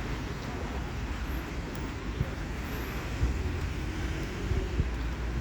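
Steady low rumble of vehicle traffic, with a few short knocks.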